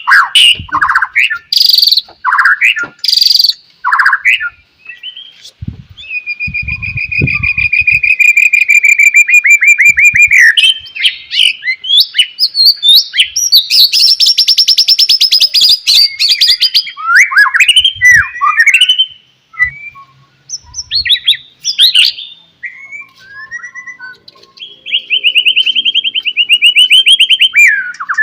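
White-rumped shama (murai batu) singing loud, varied whistled phrases broken by long, fast trills, one a few seconds in and a higher-pitched one about halfway.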